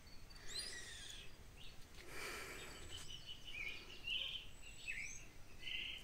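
Birds chirping and calling: scattered short, high whistles and downward-sweeping notes, with a brief rush of noise about two seconds in.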